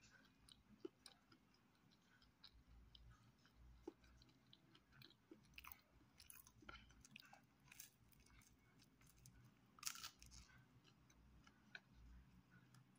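Faint chewing of pizza: soft, irregular mouth clicks and small crunches, with a louder burst of crunching about ten seconds in.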